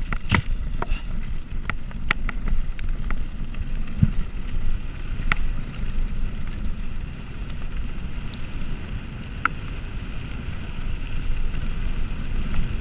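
Wind buffeting the microphone while riding a bicycle, a steady low rumble, with scattered light clicks and rattles throughout.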